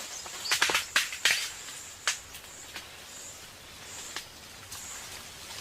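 Outdoor forest ambience: a steady thin high-pitched buzz, with several sharp snaps and cracks in the first two seconds and a few lighter ticks after.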